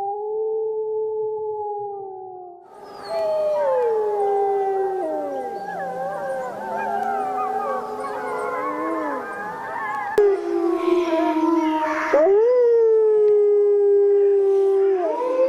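Wolves howling. One long, level howl fades out, then from about three seconds in several wolves howl together in overlapping pitches that slide up and down, some dropping low. From about ten seconds in a single long howl is heard again, followed by another rising howl.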